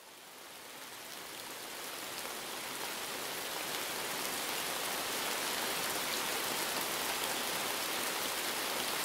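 Steady rain falling, fading in over the first few seconds and then holding even, with the light tick of individual drops.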